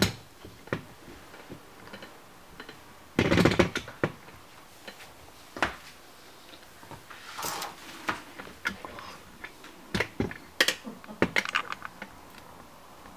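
Irregular knocks, clicks and rustling from handling parts during an installation job, with a louder clattering scrape about three seconds in.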